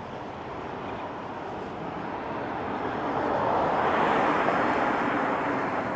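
A motor vehicle passes on the road, its noise swelling to a peak about four seconds in and then easing, over a steady rushing noise from the bicycle ride.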